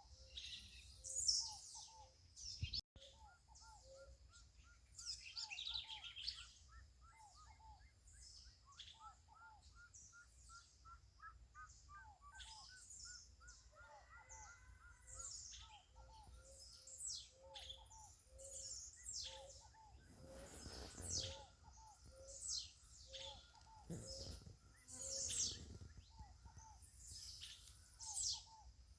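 Several birds singing at once: sharp high chirps throughout, a long run of quick repeated notes between about 3 and 13 seconds in, and soft low notes repeating underneath.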